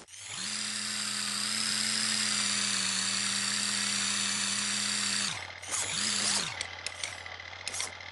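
Electric motor of an RC monster truck whining steadily at high speed for about five seconds, then cutting off. A second short burst of whine follows, then a few sharp knocks.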